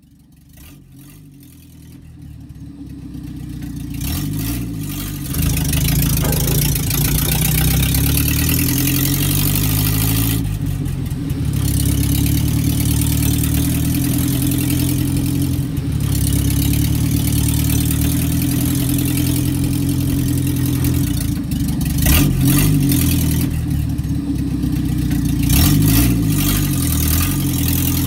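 Vehicle engine running and revved briefly a few times: once about four seconds in and twice near the end. The sound fades in and grows louder over the first five seconds.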